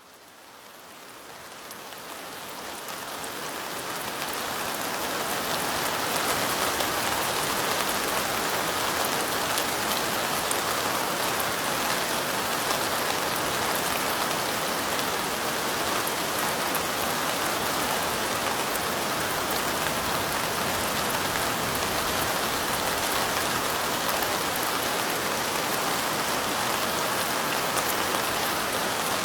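Steady rain falling, a dense patter of fine raindrops, fading in from silence over the first five seconds or so and then holding level.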